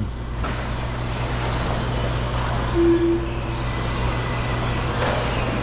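Electric RC stadium trucks racing around the track, heard as a steady noisy wash over a constant low electrical hum. A short beep sounds about three seconds in.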